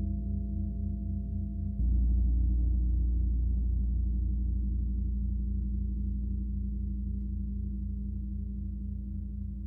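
A large gong rung with a soft mallet: a deep, sustained hum with steady pulsing overtones. It is struck again softly about two seconds in, swells and then slowly dies away.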